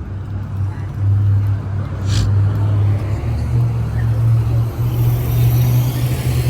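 A motor vehicle's engine running close by, a steady low hum that rises slightly in pitch about three and a half seconds in, with a sharp click about two seconds in.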